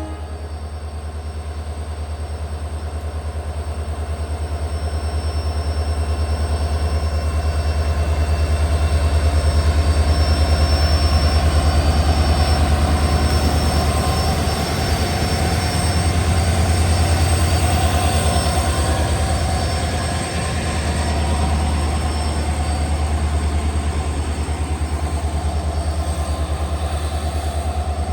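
WDP4 diesel locomotive's two-stroke engine drumming under load as it hauls an express with a dead electric loco behind it, together with the steady rumble of the coaches rolling past. The sound grows louder over the first several seconds, then holds.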